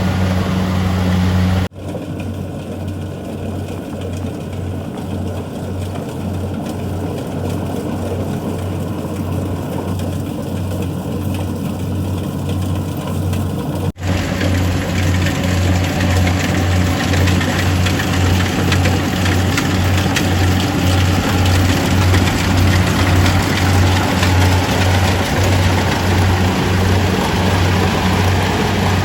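Kubota DC-70G rice combine harvester's diesel engine running steadily under working load, a low drone with a regular pulse, mixed with the rattle of the harvesting machinery. The sound breaks off abruptly and changes about two seconds in and again about halfway through.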